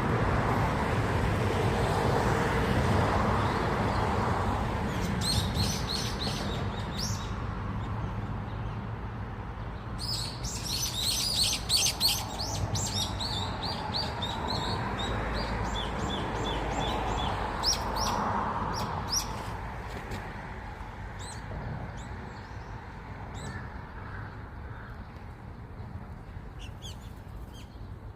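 Many small birds chirping and twittering together, in busy bursts that thin out to scattered chirps near the end, over a steady low background rumble.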